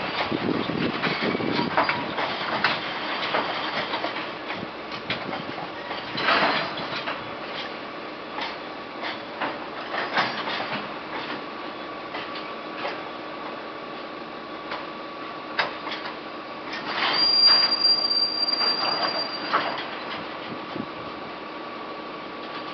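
Freight train behind an EF81 500-series electric locomotive arriving at low speed, with irregular clanks and knocks from the wagons and a faint steady whine underneath. About seventeen seconds in, a loud high wheel and brake squeal lasts for a couple of seconds as the train slows.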